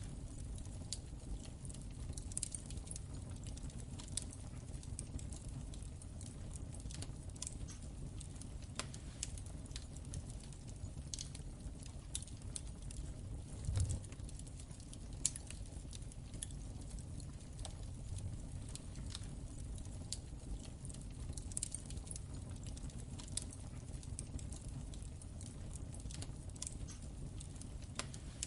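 Wood fire in a fireplace crackling: many irregular small pops and snaps over a steady low rumble of the flames, with a low thump a little before halfway and a sharper, louder pop just after it.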